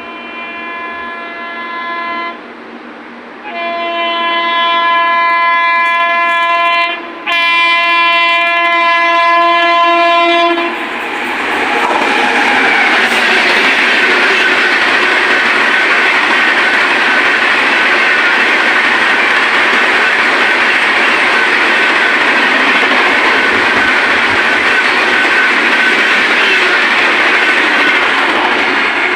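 Indian express train's locomotive horn sounding three long blasts as it approaches. The train then passes at speed, about 130 km/h, without stopping: a loud, steady rush of wheels and coaches with clickety-clack over the rail joints.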